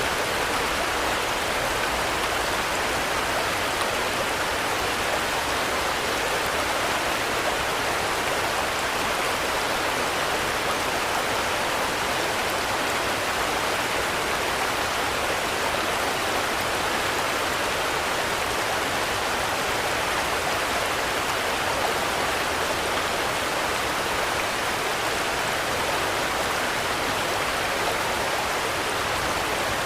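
Steady rain falling, an even hiss of many drops with no thunder or single loud hits.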